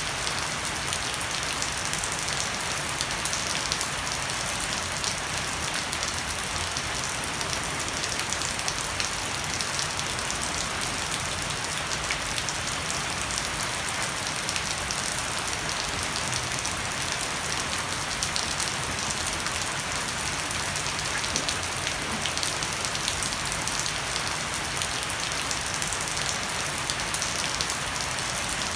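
Heavy rain falling steadily on a wooden deck and garden foliage, a dense patter of drops, with water running and dripping off the edge of a thatched roof.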